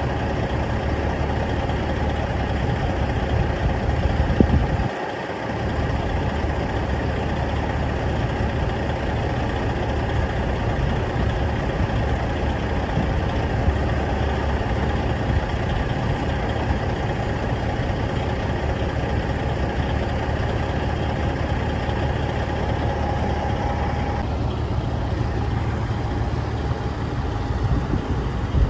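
Cummins diesel engine of a 1988 Ford L9000 grain truck idling steadily.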